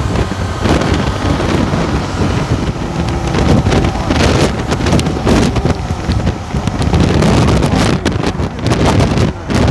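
Motorcycle running at road speed, its engine rumble mostly buried under heavy wind buffeting on the microphone, with gusts coming and going.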